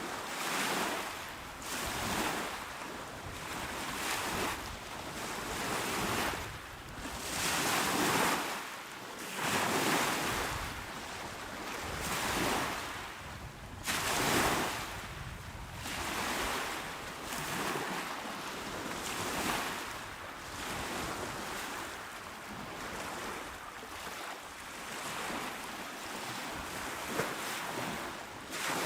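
Small, calm ocean waves washing onto a shore, each wash swelling and fading every couple of seconds.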